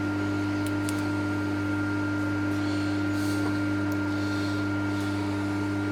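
Steady machine hum of several held tones, unchanging, with a few faint light ticks.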